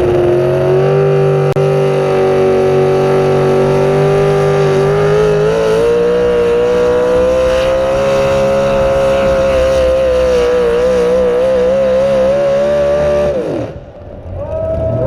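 Modified 4x4 pulling truck's naturally aspirated 650-cubic-inch big-block engine at full throttle during a sled pull, its pitch climbing slowly and wavering near the end. About thirteen seconds in the engine note falls away sharply.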